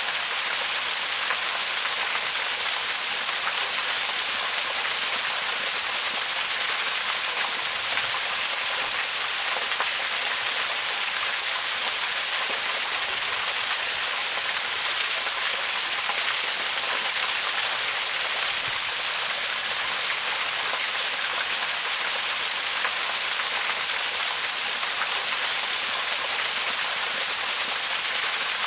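Waterfall: a steady rush of falling water, an even hiss weighted toward the high end with little low rumble, unchanging throughout.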